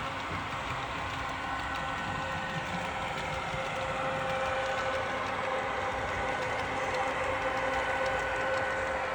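Model train running on the layout track: a steady motor whine with several held tones over a noisy rumble, growing a little louder about four seconds in.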